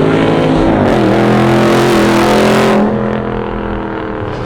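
Car engine revving hard, its pitch gliding and then holding, with a loud hiss over it that cuts off suddenly about three seconds in, after which the engine keeps running lower.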